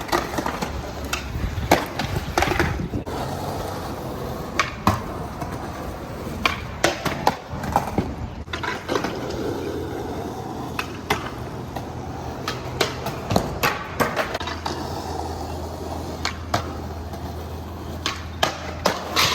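Skateboards rolling, with repeated sharp clacks and knocks from boards popping and landing on the ground.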